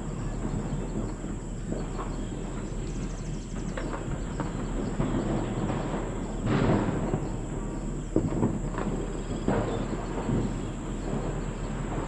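Steady outdoor rumble with several louder swells a little past the middle, and a faint steady high whine above it.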